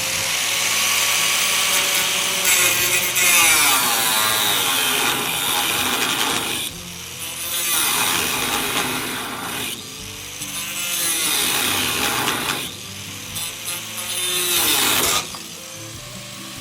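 Power tool cutting through a nut on a truck-bed bolt, running in four long stretches with its motor pitch dipping under load and recovering, then stopping about 15 seconds in.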